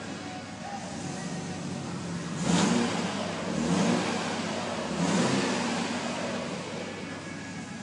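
Alfa Romeo 164 Q4's 3.0-litre V6 engine revving, rising in three surges about a second and a half apart and easing back between them, then settling.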